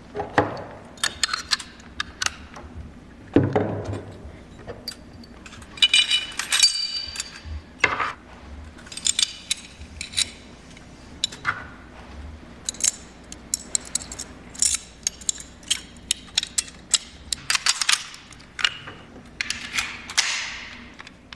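A firearm being assembled by hand: a long series of sharp metallic clicks and clacks as parts are slid, seated and snapped into place.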